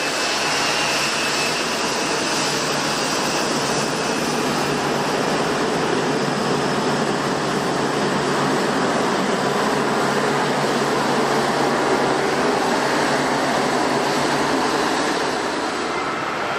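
Jet airliner engines running steadily: an even rushing noise with thin, steady whining tones over it, holding level throughout.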